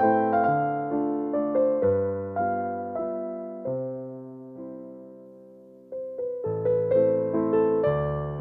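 Background piano music: a slow melody of single notes and chords, each fading after it is struck. Midway the notes die away almost to nothing, and a new phrase starts about six seconds in.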